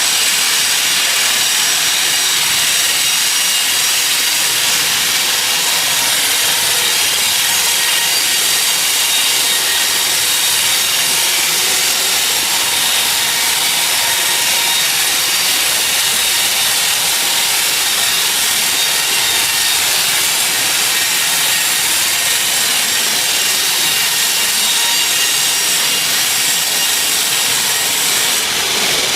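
Sawmill saw cutting through a teak log: a steady, loud, high-pitched hiss and whine of the blade in the wood, unbroken throughout.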